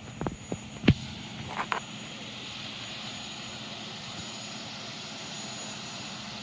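A steady engine drone, with a few sharp knocks in the first second or so, the loudest about a second in.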